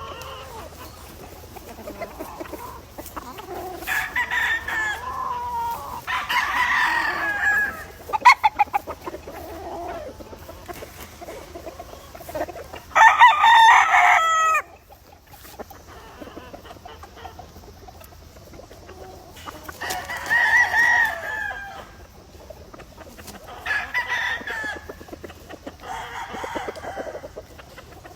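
Gamefowl roosters crowing one after another, about six crows, the loudest around halfway through, with hens clucking between them.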